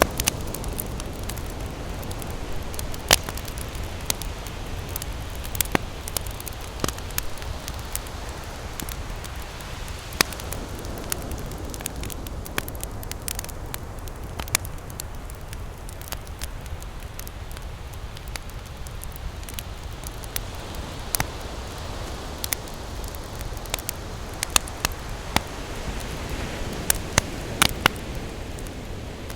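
Campfire crackling, with irregular sharp pops and snaps, some much louder than the rest, over a steady low rush of ocean surf.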